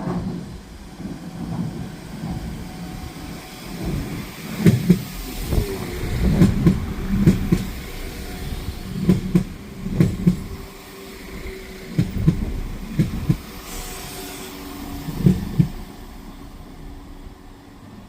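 A train passing, its wheels clattering over rail joints in paired clacks, one pair for each bogie's two axles, over a steady rumble.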